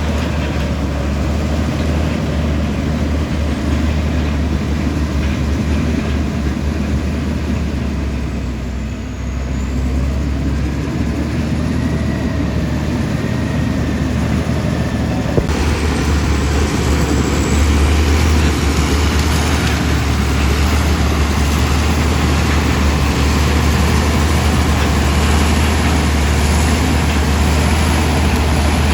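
Komatsu D65E bulldozer's diesel engine running steadily with a deep rumble, dipping briefly about nine seconds in and changing tone abruptly about halfway through.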